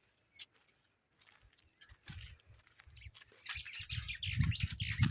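Birds chirping in short high bursts, starting about halfway through after a near-silent start, over low, irregular thuds.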